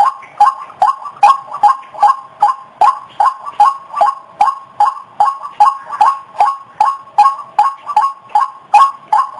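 White-breasted waterhen (ruak-ruak) lure call: a rapid series of repeated calls, about two to three a second, keeping a steady rhythm.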